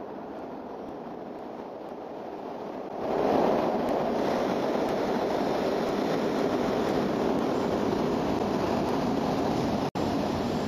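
Train running on the rails: a steady rushing rumble that grows louder about three seconds in. The sound cuts out for an instant near the end.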